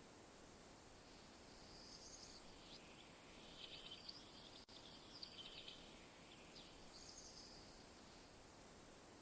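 Faint rural nature ambience: a steady hiss with a few scattered high-pitched chirping calls, clustered about two, four, five and seven seconds in.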